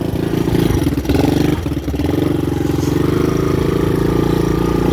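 Honda dirt bike's engine running steadily at low revs, dipping briefly about two seconds in.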